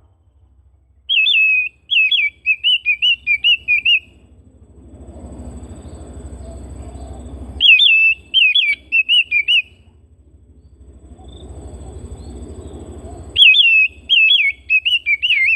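Oriental magpie-robin singing: three loud phrases of quick, wavering whistled notes, a couple of seconds each and several seconds apart. A fainter low rumbling noise rises in the gaps between phrases.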